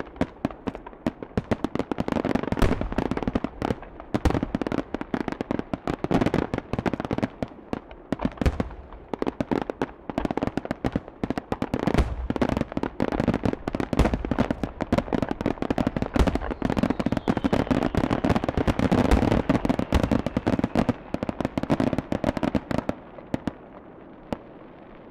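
Fireworks display: a dense, rapid run of bangs, booms and crackles, one after another, that stops about 23 seconds in and leaves only a faint low rumble.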